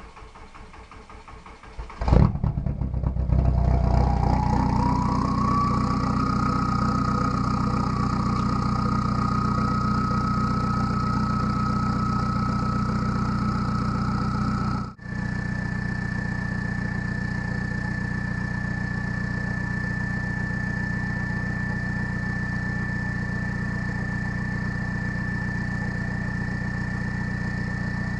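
Cold start of a straight-piped Volkswagen Jetta TDI's 1.9-litre four-cylinder turbodiesel. It cranks for about two seconds, catches loudly, then settles into a steady idle. A thin whine climbs in pitch for a few seconds and then holds; it briefly drops out about halfway through and comes back a little higher.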